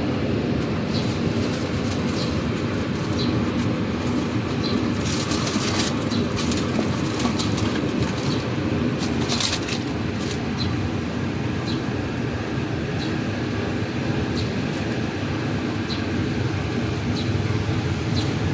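Steady mechanical running noise with a low hum, a faint regular tick about once a second, and two brief hissing bursts partway through.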